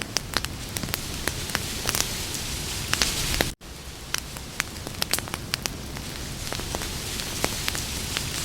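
Wood campfire crackling: frequent sharp pops and snaps at irregular intervals over a steady hiss. The sound cuts out for an instant about three and a half seconds in.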